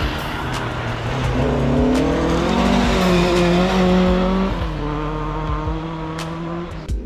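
Rally car engine accelerating hard, its pitch climbing through the revs, then dropping at a gear change about four and a half seconds in.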